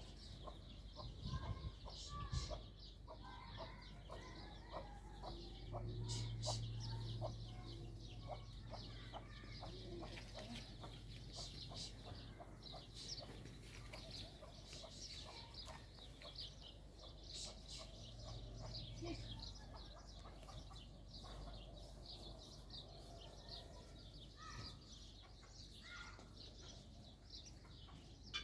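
Birds chirping continuously, with fowl clucking among them and a low hum that comes and goes twice.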